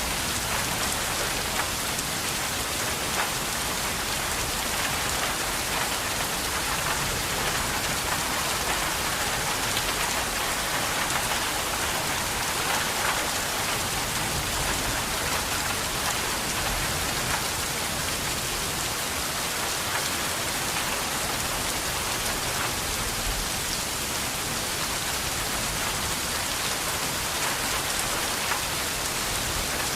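Steady rain falling on a surface, a continuous even hiss with many small drop ticks.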